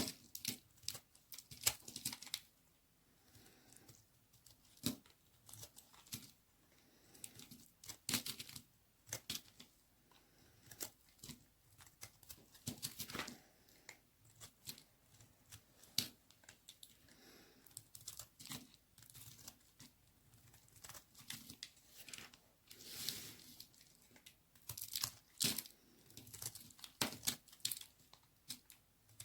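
A knife cutting into a bar of white baby soap: irregular short scraping and crunching strokes, some coming in quick runs, especially toward the end.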